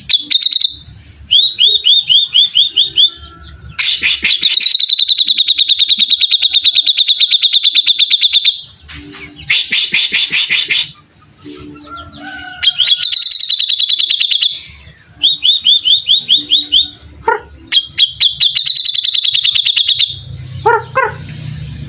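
Grey-cheeked bulbul (cucak jenggot) singing hard: long runs of rapid, evenly repeated high notes, some held for several seconds, broken by harsher rasping bursts.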